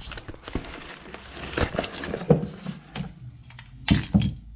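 Packaging being handled and pulled open to get a new chainsaw cylinder out, with scattered small clicks and two loud knocks close together near the end.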